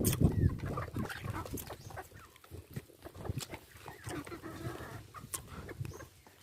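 Chickens clucking, a run of short scattered calls, louder in the first second and then fainter.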